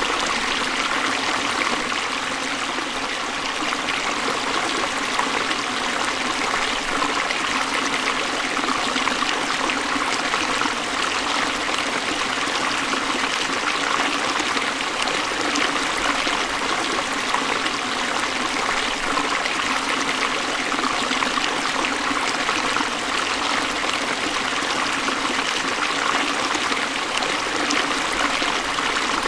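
Forest stream flowing steadily over rocks, an even rush and trickle of water.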